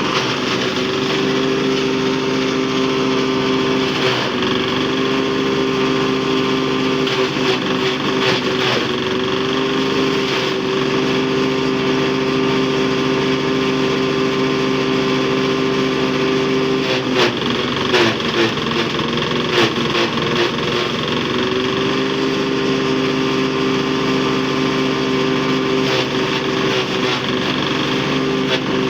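10 hp diesel engine running steadily while driving a chaff cutter, its pitch wavering briefly about two-thirds of the way through, with scattered sharp clicks and knocks from the machinery.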